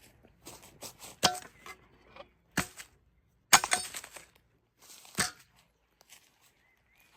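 Sharp cracks and knocks of wood being broken up: four loud cracks, the loudest about halfway through, among lighter clicks and clatter.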